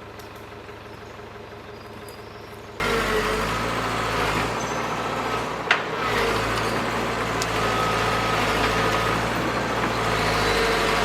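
Heavy machine engine running steadily, quiet at first and then suddenly much louder about three seconds in, with a single sharp snap or knock a few seconds later.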